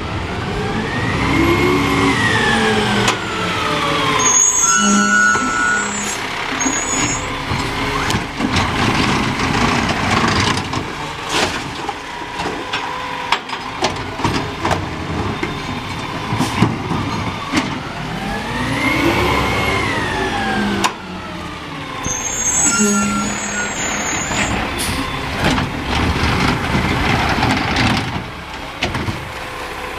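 Garbage truck working: the engine revs up and falls back twice, each time followed by brief high squeals and air hiss, over a steady mechanical rumble.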